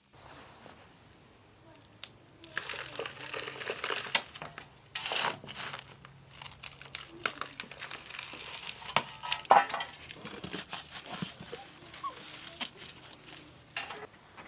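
Kitchen handling sounds: crinkling and rustling, like a plastic bag or wrapping being handled, with scattered clicks and knocks of dishes and utensils over a faint steady low hum.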